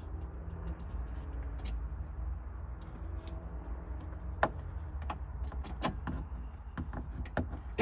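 Irregular clicks and light knocks of hand tools and metal hardware being handled during a roll bar install, over a steady low hum. The sharpest knock comes about four and a half seconds in.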